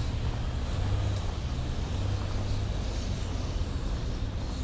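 Street traffic: a motor vehicle's engine running close by, a steady low hum that swells slightly about a second in.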